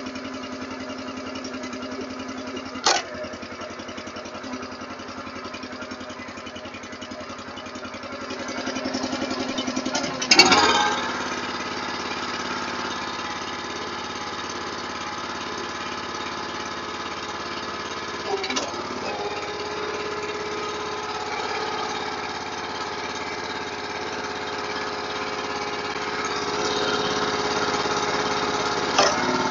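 Log splitter's small gas engine running steadily while the hydraulic ram is cycled to purge air from the rebuilt cylinder. The engine's note swells and shifts under load, and a few sharp clunks come through, the loudest about ten seconds in.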